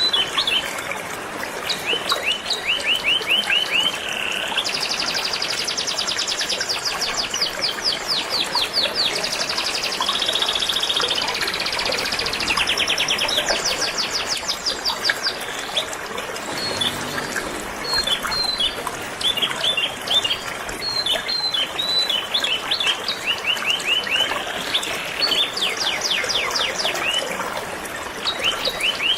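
Canary singing in fast trills and repeated chirps over steadily flowing river water.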